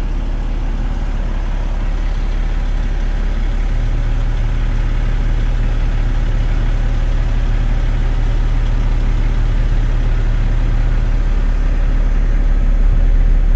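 Diesel engine of a haul dump truck idling steadily, already warm. A second steady hum joins about four seconds in and drops out around eleven seconds.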